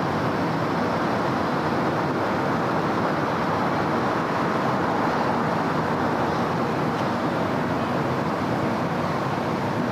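Steady city road-traffic noise: an even, continuous wash with no single vehicle standing out.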